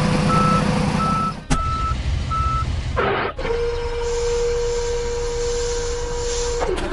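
Vehicle reversing alarm beeping evenly, about twice a second, over a low engine rumble. About three seconds in, after a cut, the beeping stops and a single steady hum goes on.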